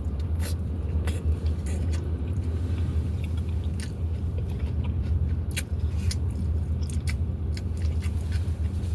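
Close-up mouth sounds of a person biting into and chewing a beef taco, with scattered crisp crunches, over a steady low hum.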